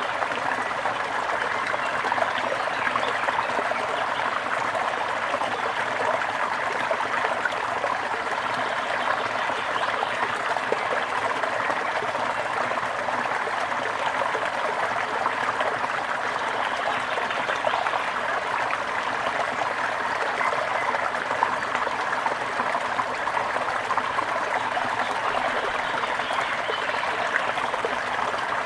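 Small stream of water trickling and babbling steadily over stones, an even continuous splashing.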